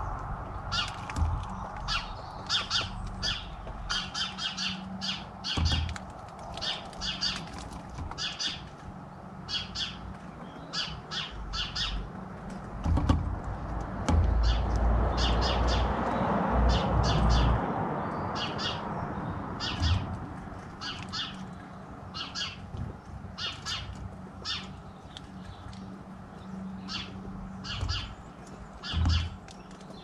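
Short, sharp bird calls repeated in quick clusters, roughly once or twice a second, over a few low knocks and a low rumble about halfway through.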